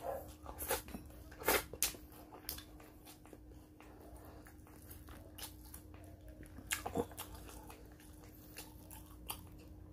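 Close-up eating sounds of a man chewing and smacking on fried fish and crab, with scattered sharp crunches and clicks, the loudest about a second and a half in and again about seven seconds in.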